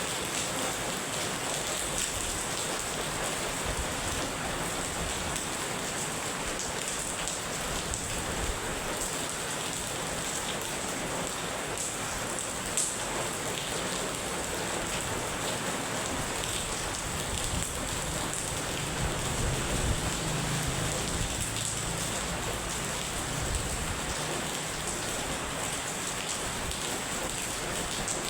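Heavy rain falling steadily, a dense even hiss with scattered drop ticks. A brief low rumble rises under it about two-thirds of the way through.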